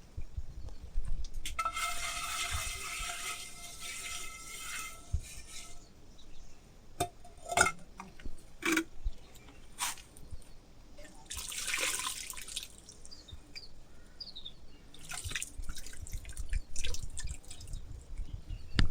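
Water splashing and trickling, with scattered clinks and knocks.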